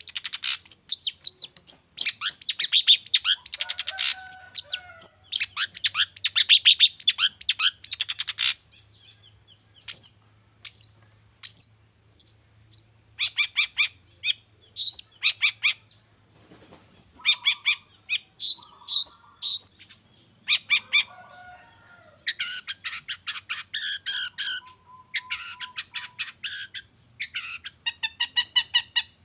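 Long-tailed shrike (cendet) singing a fast, varied song of rapid chattering notes and short whistles. The song thins to scattered phrases about nine seconds in and grows dense again near the end.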